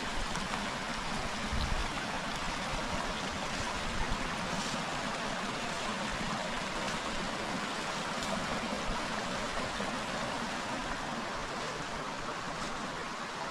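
A river flowing: a steady, even rush of running water, with a couple of soft low thumps in the first few seconds.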